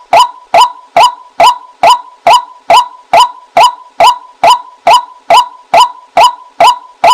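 Female white-breasted waterhen giving its monotonous 'kwak' call, a steady run of short, identical notes a little over two a second, the call used to lure the birds.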